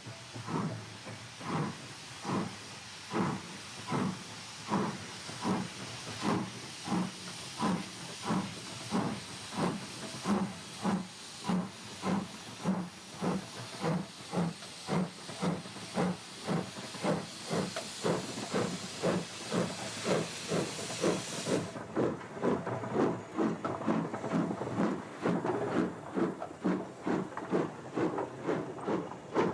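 LMS Jubilee Class three-cylinder 4-6-0 steam locomotive Bahamas starting away, its exhaust beats chuffing evenly and coming faster as it gathers speed. A steam hiss runs with the beats and stops suddenly about 22 seconds in.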